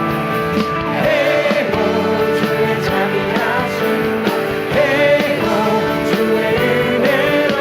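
Contemporary Korean praise-and-worship music: a band playing with singing voices, in an instrumental stretch between sung lines of the song.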